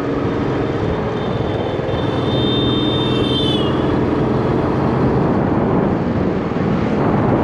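Royal Enfield Bullet 350's single-cylinder engine running steadily at cruising speed, heard from the rider's seat with wind and road noise. A thin high whistling tone joins about a second in, then slides down and stops a little past the midpoint.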